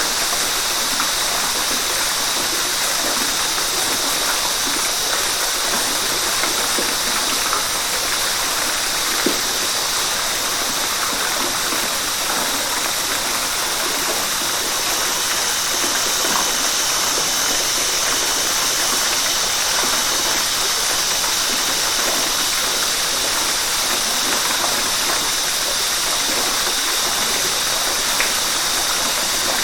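River water rushing and splashing over rocks in a steady, unbroken hiss, with a few small splashes standing out.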